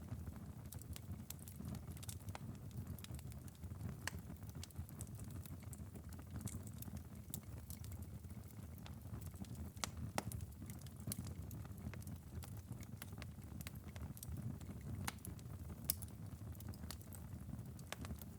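Wood-burning fireplace's glowing ember bed, late in a long burn, crackling: sparse, irregular sharp pops and ticks over a low, steady rumble.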